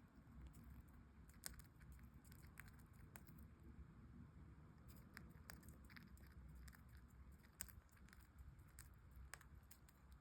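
Budgerigar cracking and husking seeds with its beak: faint, irregular small clicks over a low hum.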